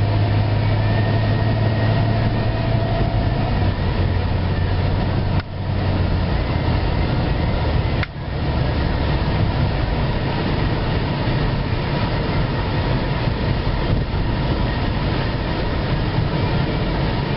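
In-cabin engine and road noise of a 1999 Pontiac Grand Am GT with its 3400 V6, driving steadily. There is a low engine hum early on that fades, and two brief dips in level about five and eight seconds in.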